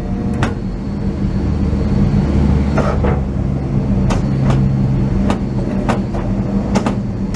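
1953 Studebaker M108 crane truck's gasoline engine running steadily, working the crane's arms as they are brought back into their transport position, with a deeper rumble swelling about two seconds in. A scatter of sharp clicks and knocks sounds over the engine.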